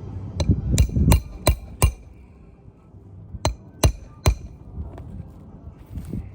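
Hammer blows driving a roofing nail under a shingle through a Roof Snake nailing tool, each strike with a short metallic ring. Five quick blows at about three a second, a pause, then three more.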